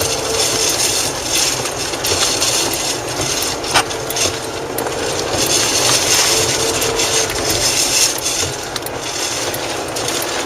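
Steady rushing wind and road noise from a moving vehicle, with a faint hum that fades in and out and a sharp click about four seconds in.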